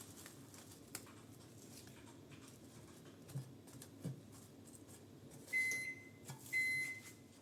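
Electronic beeping from a household appliance: two steady high beeps about a second apart near the end, after a few faint knocks.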